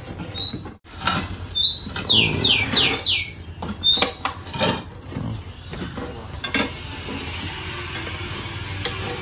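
A bird chirping in short rising and falling whistles, some in quick runs of four, over knocks and clatter of building materials being handled during demolition work. From about six and a half seconds in, a steady hiss takes over.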